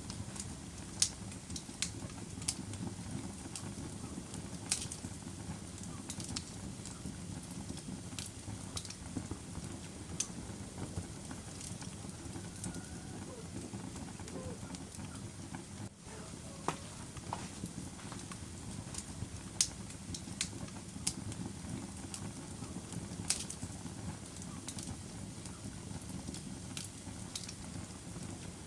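Wood fire in a fireplace crackling: a steady low hiss of burning with irregular sharp pops and snaps, a few of them louder than the rest.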